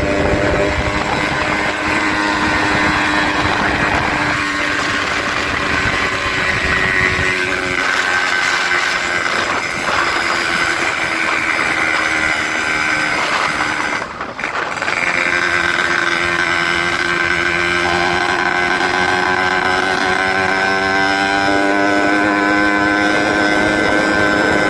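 Motorcycle engine running through a gutted 'bobokan' muffler, its pitch shifting up and down as it rides, with a brief drop in the engine sound about halfway through.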